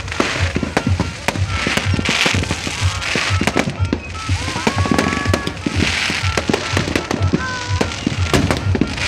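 A fireworks display: shells bursting in quick succession, with sharp bangs and crackling. Underneath runs a steady bass beat of music, with some voices.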